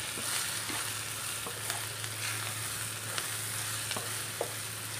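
Sliced ivy gourd (tendli) with onion, tomato and masala sizzling in oil in a non-stick kadai while a wooden spatula stirs it, with scattered light taps and scrapes of the spatula against the pan.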